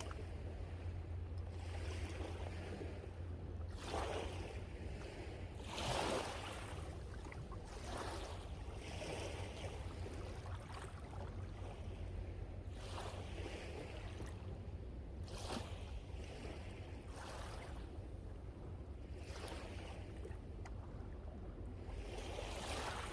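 Sea waves breaking and washing up the shore in repeated surges every second or few, the largest about four and six seconds in, over a steady low rumble.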